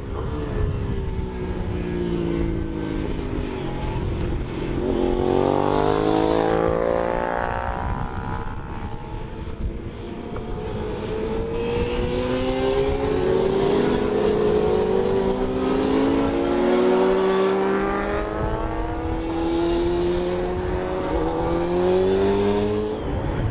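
Racing motorcycles at full throttle, their engine notes rising through the gears again and again, with several bikes heard at once in the second half.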